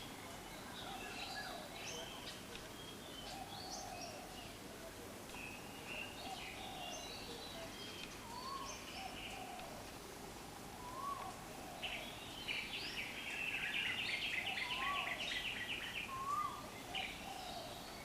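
Several birds calling in the background: scattered chirps throughout, short rising whistles several times, and a fast run of rapid notes for a few seconds in the second half, over steady outdoor ambience.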